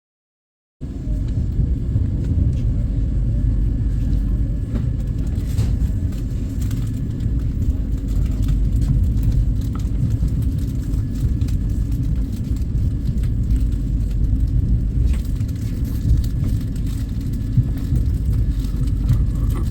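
Vande Bharat Express train running, a steady low rumble that starts abruptly about a second in after silence.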